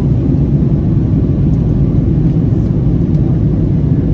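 Steady low rumble of an Airbus A321neo's jet engines and rushing airflow, heard inside the passenger cabin during the climb after takeoff.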